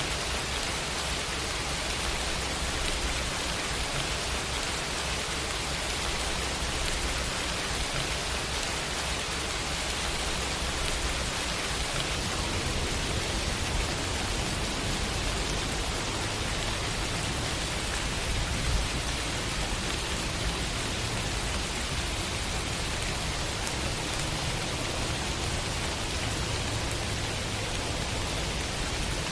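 Steady, heavy rain hiss. About twelve seconds in, a deeper low rumble comes in underneath, and one brief louder tap stands out a little after the middle.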